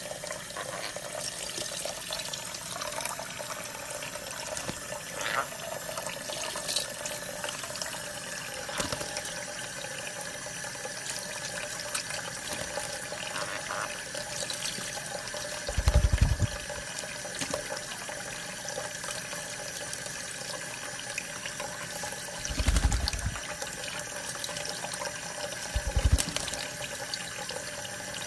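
Steady running water, like a tap pouring, with three short low thumps partway through.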